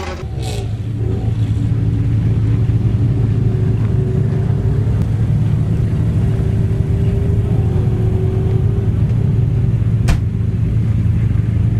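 Car engine idling steadily close by, an even low hum, with a single sharp click about ten seconds in.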